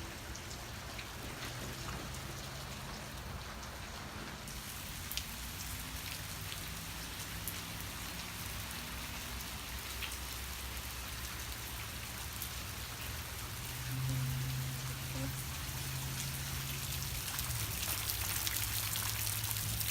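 Steady summer rain falling, with single drops ticking on surfaces close to the microphone. A low steady hum runs underneath and grows louder for a few seconds past the middle.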